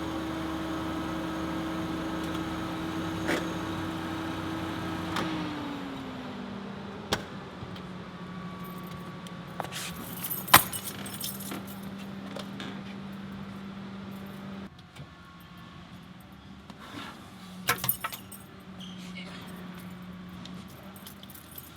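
A car engine hums steadily with a second tone that slides down in pitch about five seconds in. Sharp clicks and knocks come now and then, with a jangling cluster of them near the end.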